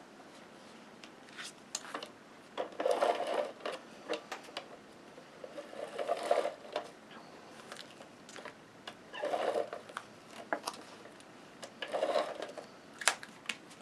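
Tape runner rolled along paper in four short strokes, each about a second long, with small clicks of paper being handled in between.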